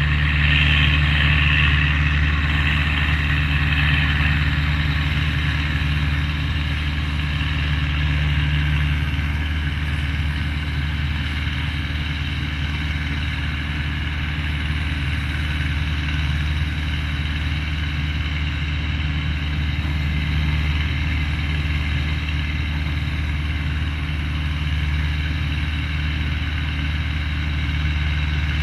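Tractor engine running at a steady speed while powering a hay baler, a constant low drone with a hiss over it, a little louder in the first few seconds.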